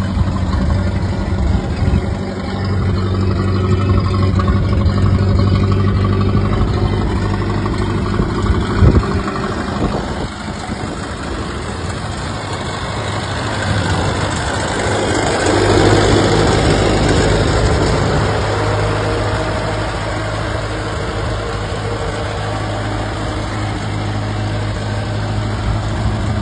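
Ford Model A's four-cylinder engine idling steadily, with a single knock about nine seconds in and a brief swell in loudness about two-thirds of the way through.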